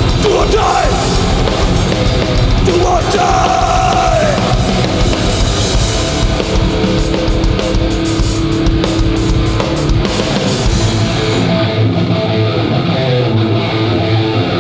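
Hardcore punk band playing live and loud: distorted electric guitars, bass and a pounding drum kit in an instrumental passage. About three seconds before the end the cymbals fall away, leaving the guitars and bass.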